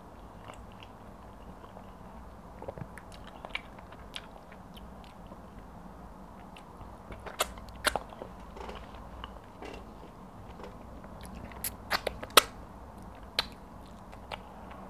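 Close-up eating sounds of a person chewing pounded yam and egusi soup eaten by hand, with scattered sharp wet mouth clicks and smacks that come in clusters about halfway through and again near the end, over a faint steady hum.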